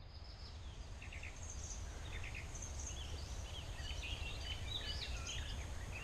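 Small birds chirping in short, repeated calls over a low, steady rumble of outdoor background noise. The chirping becomes busier after the first couple of seconds.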